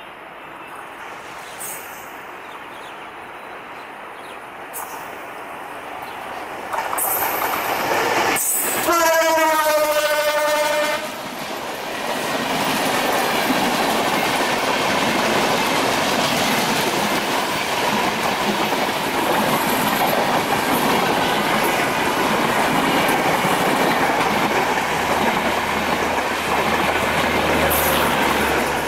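A diesel locomotive draws near and sounds its horn for about two seconds, a bit over eight seconds in. Then the passenger coaches roll past with a steady rumble of wheels on rail and clickety-clack.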